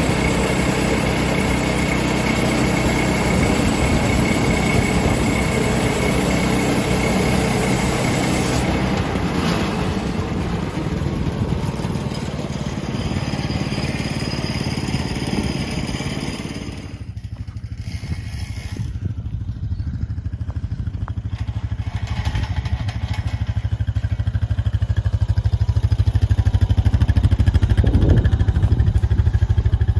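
Sawmill running: an engine runs steadily while the saw cuts through a log, a loud noise with a steady whine on top. About halfway through the high cutting noise cuts off suddenly, leaving a deeper steady engine hum that grows louder near the end.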